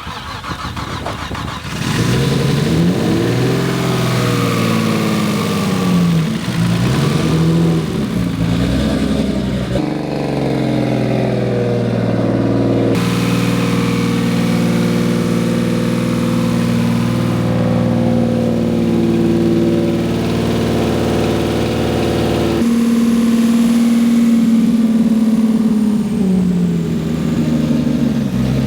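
Turbocharged Infiniti G35's 3.5-litre V6 running just after its first start on the rebuild: revved up and down several times over the first ten seconds, then idling steadily, with another dip and rise in revs at the very end.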